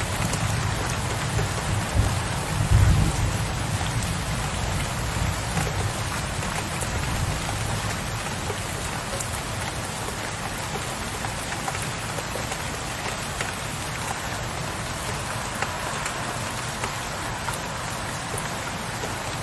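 Steady rain falling on a window ledge, with the tail of a low thunder rumble that swells briefly twice and fades out in the first few seconds.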